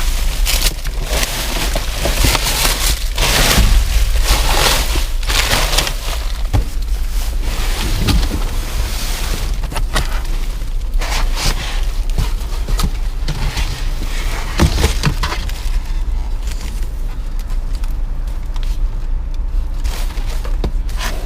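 Rummaging through trash in a dumpster: bags and debris rustling and crunching, with scattered knocks. It is busiest in the first half and thins out later, over a steady low rumble.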